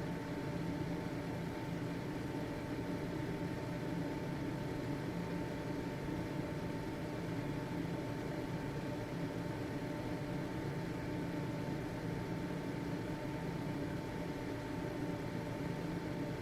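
Household ventilation fan running steadily: an even whooshing hum with a faint constant whine from the motor.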